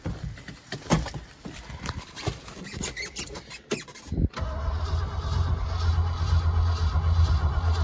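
A few knocks and clicks, then about four seconds in the starter begins cranking the Ford 360 FE V8 of a 1971 Highboy pickup, turning it over quickly and steadily without firing.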